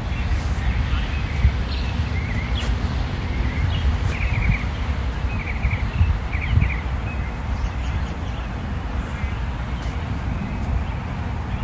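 Small birds chirping in short, repeated trills over a steady low outdoor rumble.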